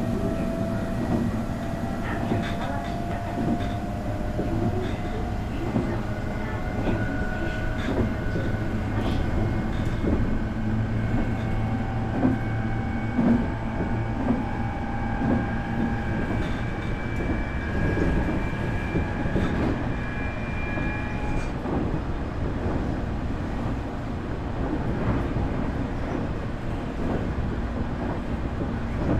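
Onboard running sound of a Nankai 8300 series train, heard from the motor car: the Hitachi IGBT VVVF inverter and Toyo Denki totally enclosed traction motors whine, the pitch rising slowly under power, until the whine stops about 21 s in and the train runs on without it. Under it the wheels rumble on the track with scattered clicks from rail joints.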